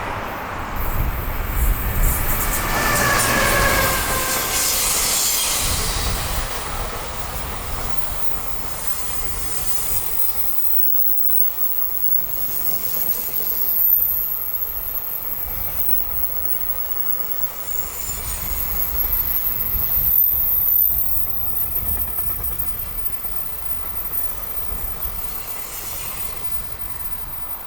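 Freight trains hauled by EF210 electric locomotives passing at speed, one after the other: wagons rumbling and clattering over the rail joints. A locomotive's motor whine falls in pitch as it goes by, a few seconds in. The sound swells again twice before fading near the end.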